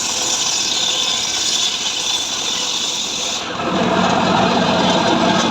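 Power saw cutting through dry mahogany, a steady sawing noise. About three and a half seconds in, the sound deepens.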